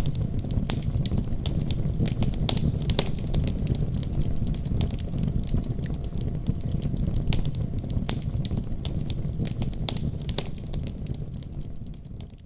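Wood fire burning in a fireplace: a steady low rumble of flames with frequent irregular crackles and sharp pops. The sound fades out near the end.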